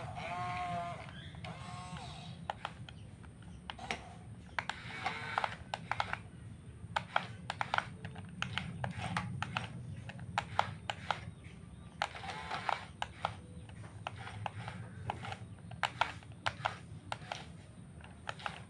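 Scale RC excavator and bulldozer working dirt: a steady low motor and hydraulic hum with irregular clicks and scrapes of soil and stones, and a few short wavering calls.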